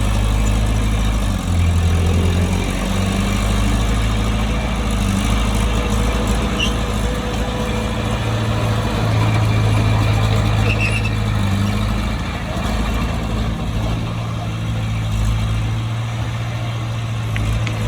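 Bulldozer's diesel engine running steadily, with a low drone whose note shifts briefly about two seconds in.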